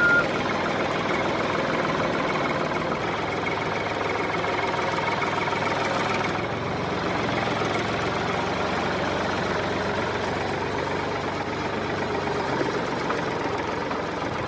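An engine running steadily, without revving, a little quieter from about six seconds in.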